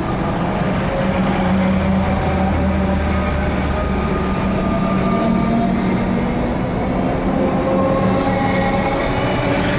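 Electric suburban train running, a steady loud rumble with several held motor tones over it.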